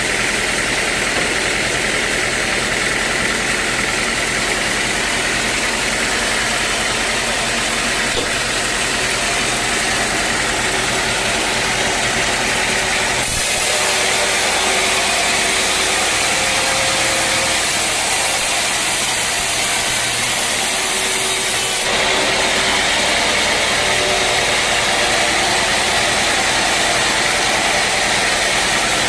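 Sawmill machinery running steadily with a loud, continuous engine-like noise. About halfway through it turns hissier and brighter for several seconds, then switches back abruptly.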